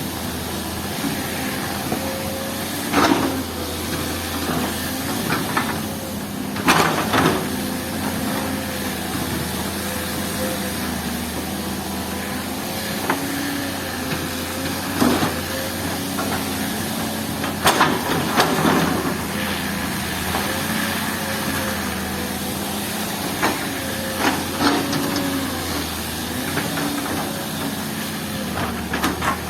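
Heavy earthmoving machine's diesel engine running steadily under work, with a wavering whine over it. A handful of sharp knocks and scrapes, like a bucket or blade striking rock and soil, come at irregular times.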